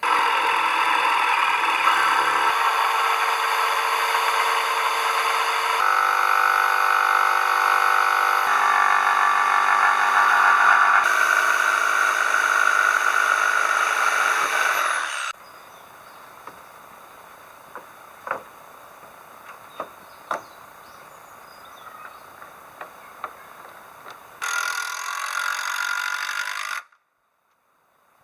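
A power tool running on wood across several edited clips, each with a steady pitch that jumps at the cuts. Then a quieter stretch of scattered sharp knocks and taps, and a short final burst of the tool running that cuts off abruptly.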